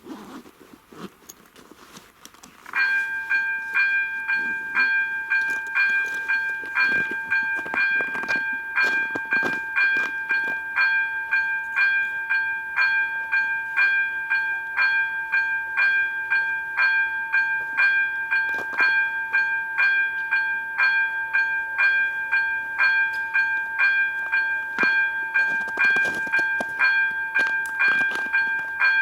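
Level crossing's electronic warning bell switching on about three seconds in, then ringing with a steady, evenly pulsing tone: the crossing is activated for an approaching train.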